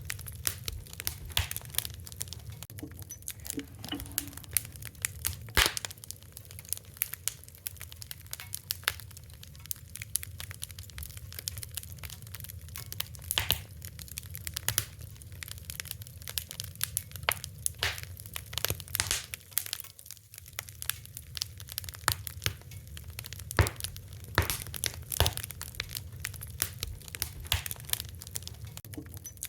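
Fire crackling: irregular sharp snaps and pops, some louder than others, over a low steady rumble.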